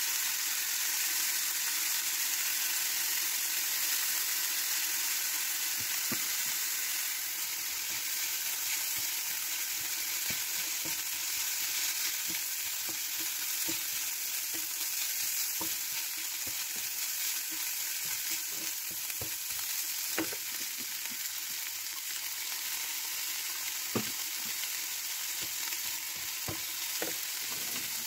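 Chopped chicken and onions sizzling steadily in a nonstick frying pan, with scattered taps and scrapes of a plastic spatula stirring them against the pan, a couple of sharper knocks in the second half.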